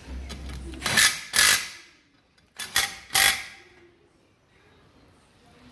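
Short, harsh scraping strokes of a hand tool on metal, five of them in two groups about a second and a half apart.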